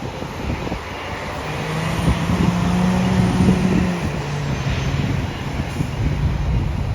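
Aircraft engine noise: a low rumble with a steady hum that drops slightly in pitch about four seconds in.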